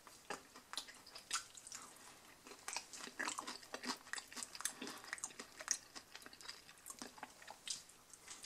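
A person chewing and biting on a fried chicken wing, with faint, irregular crunches and mouth clicks.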